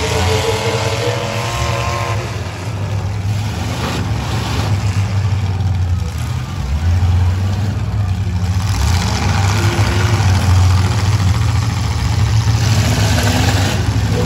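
Several demolition derby cars' engines revving hard as the cars spin their wheels on dirt: a continuous, loud, deep rumble that swells and eases.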